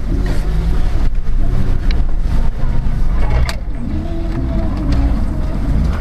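Off-road vehicle's engine running under load, low and steady, as it drives through and out of a creek bed, with a single sharp knock about three and a half seconds in.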